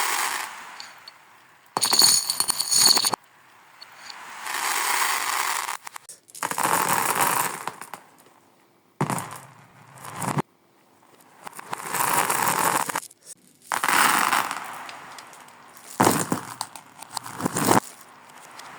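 A series of crunching, crackling noises played in reverse: several swell up over a second or so and then stop abruptly, about seven of them, with one near the start carrying a brief ringing, glassy tone.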